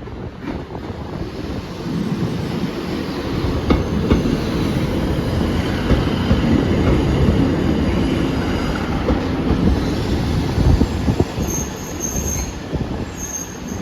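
A train running along the station tracks, building to a loud rumble with wheels clattering over the rail joints. High-pitched wheel squeals come in near the end.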